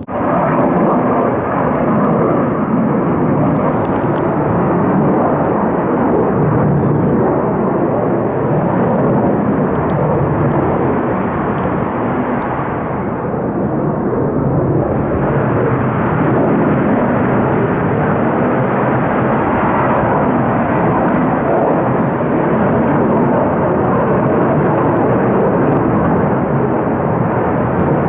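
Military fighter jets taking off: a loud, continuous jet-engine roar that thins briefly about halfway through and then builds again.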